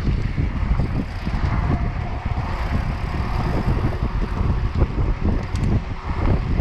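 Heavy wind noise on the microphone of a camera carried by a mountain biker racing downhill, mixed with the bike's tyres and frame rattling over rough ground. The rumble is continuous and flickers rapidly in level.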